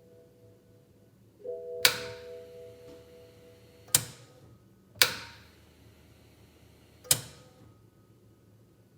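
Four loud, distinct clicks from the starter motor and solenoid of a BMW Z4 35i, a second or two apart, with no cranking: the starter is dead. A short electronic chime sounds just before the first click.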